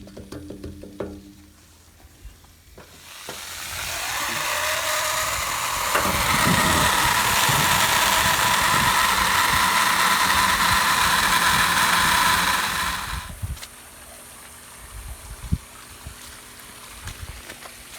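Baking soda and water flushing a rusty, vinegar-soaked generator gas tank: a loud, steady fizzing rush that builds over a few seconds, holds, then cuts off suddenly. The baking soda neutralizes the vinegar left in the tank.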